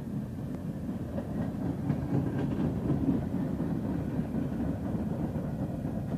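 Freight train cars, tank cars and empty centerbeam flatcars, rolling past: a steady low rumble of steel wheels on the rails with a few faint clicks.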